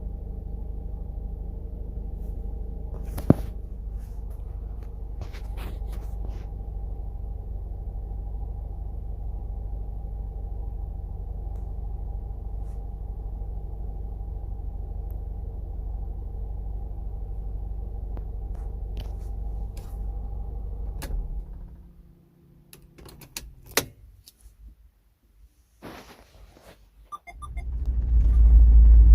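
First-generation Honda CR-V's four-cylinder engine running steadily, a low hum with a faint whine over it, cutting out about three quarters of the way through. A few clicks and knocks follow, then a loud low rumble builds near the end.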